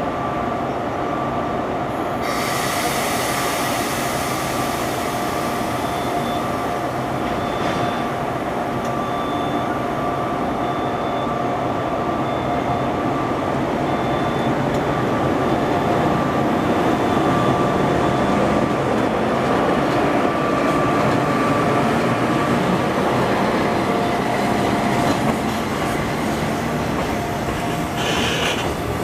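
Freight train hauled by an ED76 electric locomotive rolling slowly through the station, with a steady rolling rumble and a continuous high-pitched wheel squeal. The hiss gets louder about two seconds in.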